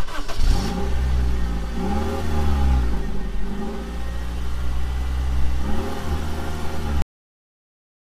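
Vehicle engine sound, running with a deep steady hum and revving up and down in pitch a few times, then cutting off suddenly about seven seconds in.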